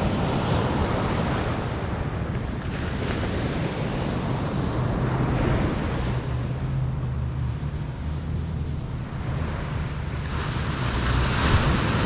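Steady roar of wind and ocean surf, with wind buffeting the microphone.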